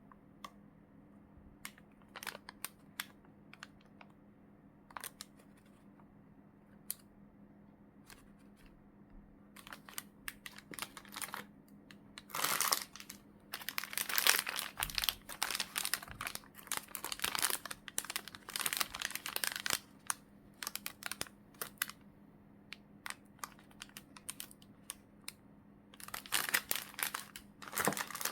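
Plastic packaging crinkling and rustling as goods are unwrapped by hand. Scattered light clicks and taps come first, then dense crinkling bursts from about halfway in and again near the end.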